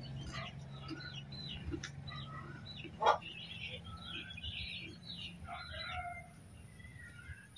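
Many short, high, birdlike chirps repeating irregularly over a low steady hum, with one sharp knock about three seconds in.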